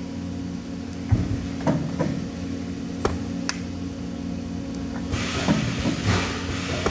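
Steady machine hum in a metalworking shop, with a few sharp metal clinks and knocks, then a hiss that starts about five seconds in.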